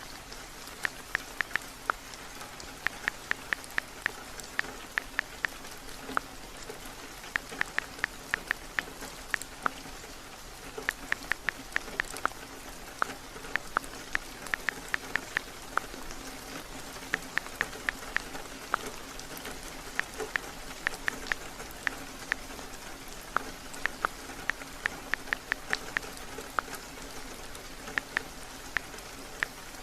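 Steady heavy rain, overlaid with runs of quick sharp clicks from a phone's touchscreen keyboard as someone types, several taps a second in bursts with short pauses between.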